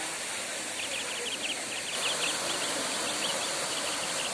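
Steady rushing of a waterfall, with quick clusters of short, high chirps from about a second in.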